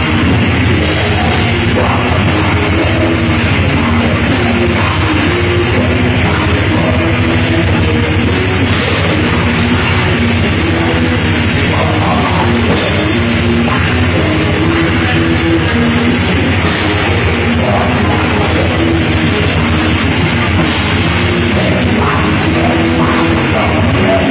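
Heavy metal band playing loud and without a break: a distorted guitar riff repeating over fast, constant drumming.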